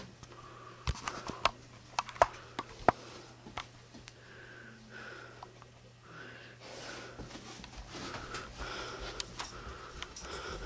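Dog sniffing in quick, short puffs, with a few sharp clicks in the first few seconds.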